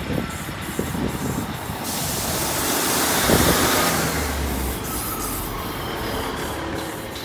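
Class 150 Sprinter diesel multiple unit running past close by into the platform: engine and wheels on the rails, with knocks over a steady rumble. It gets loudest about halfway through as the cab goes by, then eases off.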